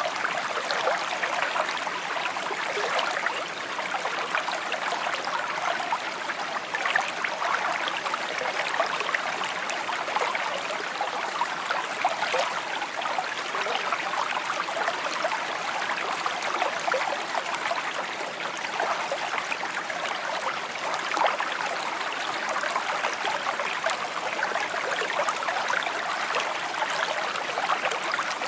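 Small stream babbling and trickling over stones, a steady, bright burble of running water.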